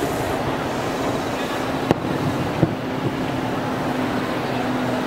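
Steady din of a train and station platform, with two sharp distant bangs from the fireworks about two seconds in, under a second apart. A steady low hum sets in at the second bang.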